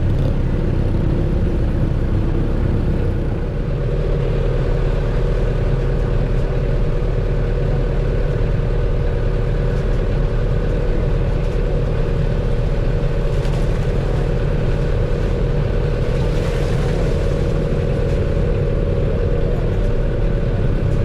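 Truck engine running steadily, a constant hum with no change in speed, as heard while riding on the truck.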